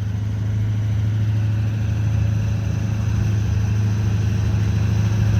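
Truck engine running at a steady low speed, its hum getting gradually louder.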